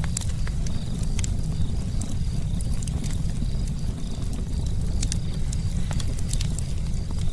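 Campfire burning, with irregular sharp crackles and pops of the wood over a steady low rumble.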